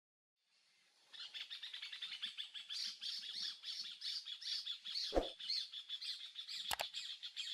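Dense, continuous chirping of many small birds, starting about a second in. A couple of sharp clicks or knocks cut through it, the first about five seconds in.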